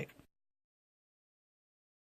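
A man's voice finishing a word in the first moment, then the sound cuts off suddenly to dead silence.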